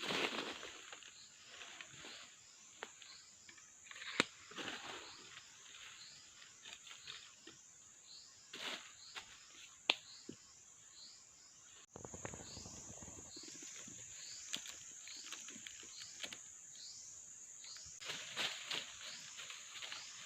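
Forest insects droning steadily at a high pitch, with short falling chirps repeating over it. Scattered rustles and knocks of movement in undergrowth come through, briefly busier near the start and again near the end.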